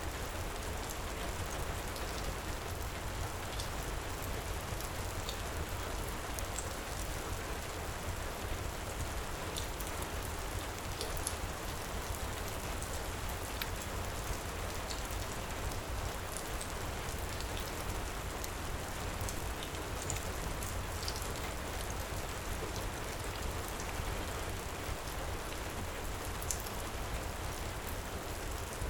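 Steady heavy rain falling, with scattered faint crackles from a wood fire in a stone fireplace.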